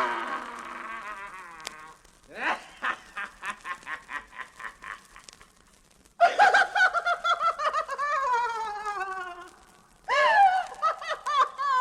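Cats yowling: long wailing calls that fall in pitch, with a stretch of quick stuttering calls in the middle and two long loud yowls in the second half.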